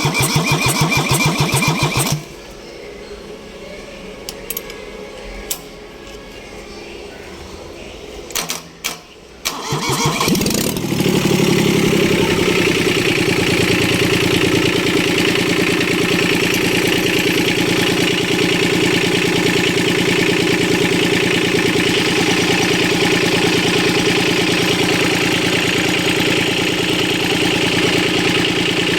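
Kubota B1500 tractor's diesel engine cranked by the starter for about two seconds without catching. About ten seconds in it is cranked again, catches, and keeps running steadily.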